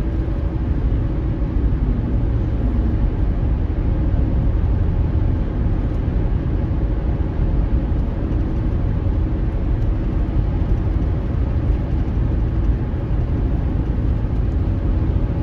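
Car driving along steadily, a constant low rumble of engine and road noise with no change in pace.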